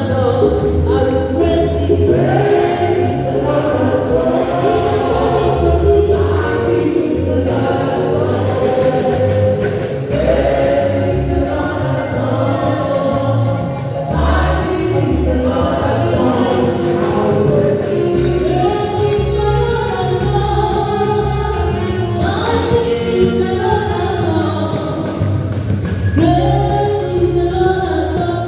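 Church choir singing a gospel song, with a steady low bass accompaniment beneath the voices.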